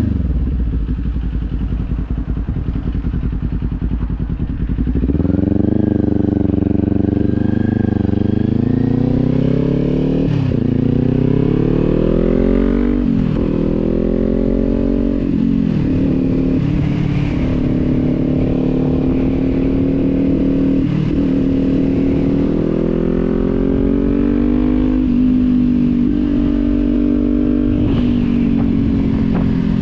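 Kawasaki sports bike engine through a Leo Vince aftermarket exhaust, heard while riding. After a few seconds at a steady low pitch the engine pulls up through the gears, its pitch climbing and dropping back at upshifts about 10, 13 and 15 seconds in, then it cruises at a fairly steady pitch.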